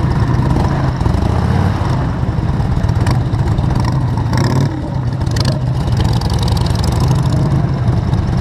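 A vehicle engine running steadily under a wash of noise.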